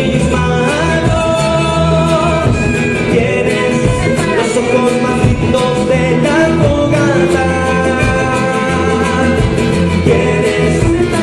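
A song performed live: a voice sings long held notes over steady band accompaniment.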